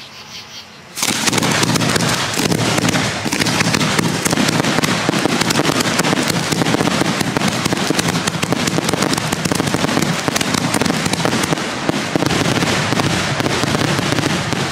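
Aerial fireworks shells bursting overhead: from about a second in, a loud, dense, unbroken barrage of bursts and crackle.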